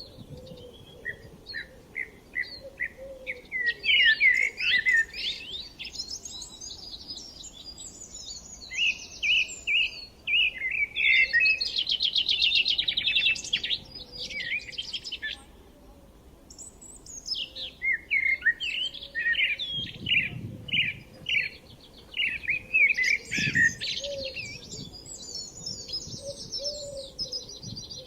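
Several songbirds singing and chirping in quick, overlapping phrases, with a short lull just past the middle.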